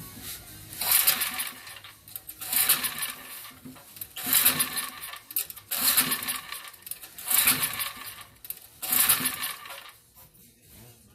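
Small generator engine being pull-started: six quick pulls of the recoil starter cord, each a short rattling whir about a second and a half apart. The engine does not catch between pulls.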